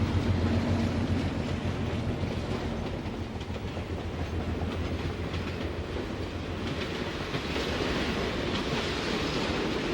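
Diesel passenger train, headed by a pair of Alco PA locomotives, arriving: a low, steady engine hum at first, with wheels clicking over rail joints and a brighter wheel-on-rail hiss building near the end.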